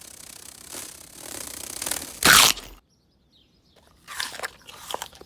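Cartoon sound effects of a dog lunging at and catching a bird: a rustling scuffle that builds to one loud crash about two seconds in, then after a brief silence a few scattered crunches.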